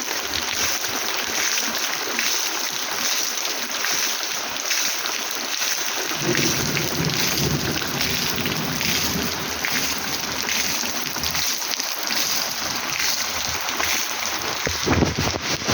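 Heavy rain falling steadily. About six seconds in, a low roll of thunder comes in and rumbles for about five seconds, and a brief low rumble follows near the end.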